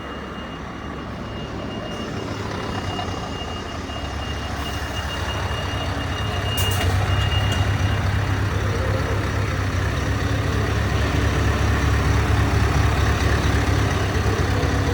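Scania 660 V8 truck engine running at low speed while manoeuvring, its exhaust fitted with a diffuser, a deep rumble that grows steadily louder as the truck comes closer. A thin steady high whine runs alongside for the first half and stops about eight seconds in.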